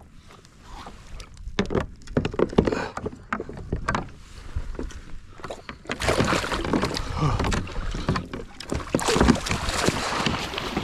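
Knocks and clatter against a fishing kayak's plastic hull, then from about halfway a loud spell of water splashing as a big snapper thrashes while being landed.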